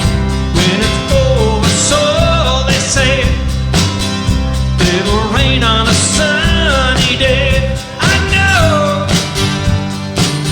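Live band playing a rock song: a singer's voice over guitar, bass and drums with a steady beat.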